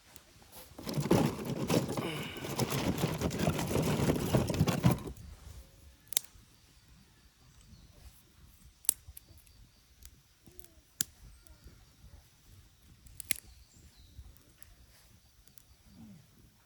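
About four seconds of loud crinkling and rustling close to the microphone, then a few scattered sharp clicks or pops.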